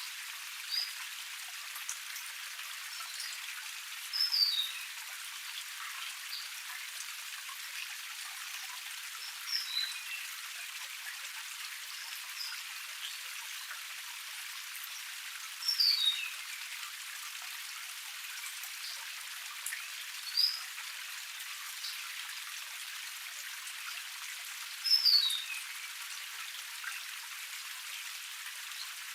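Small forest waterfall cascade splashing steadily in a spattering, rain-like hiss. A bird gives a short falling call about every five seconds, six times in all.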